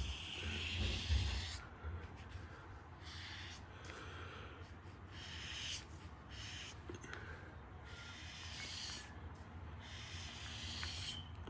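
Felt-tip marker strokes rubbing across paper: a run of scratchy strokes of varying length, separated by short pauses, with a couple of low thumps in the first second or so.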